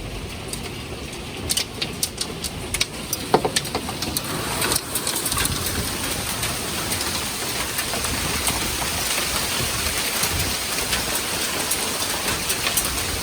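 Hailstones striking hard surfaces as scattered sharp clicks for the first few seconds, then a dense, steady downpour of hail and rain that builds from about five seconds in.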